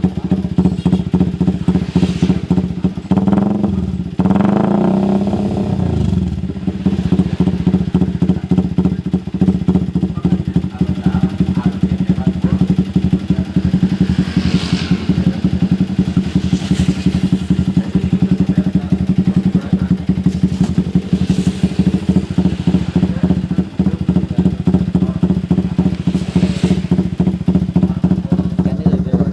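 Motorcycle running through an aftermarket RPL exhaust, idling with a steady, closely spaced exhaust beat; it is revved once about four seconds in and falls back to idle.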